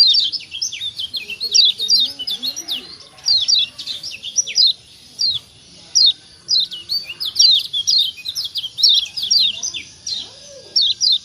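Kecial kuning (Lombok yellow white-eye) calling: quick runs of short, high 'ciak' chirps, several notes a second, broken by brief pauses.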